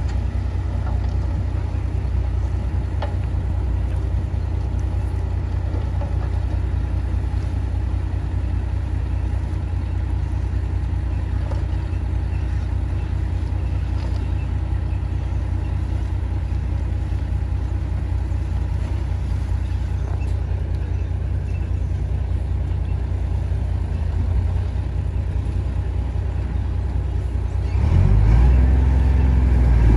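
Heavy diesel earthmoving machinery running steadily with a deep engine sound. Near the end the engine revs up and gets louder.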